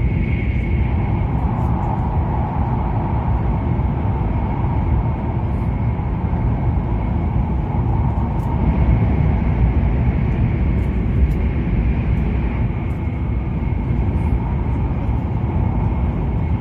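Inside the passenger cabin of an E7 series Shinkansen, a steady low rumble of the train running on the line, with a faint steady whine above it.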